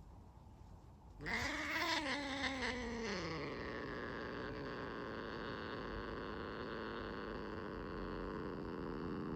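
A domestic cat yowls angrily at being scratched. About a second in comes a loud cry that rises and then falls in pitch, and it runs straight on into a long, steady growl.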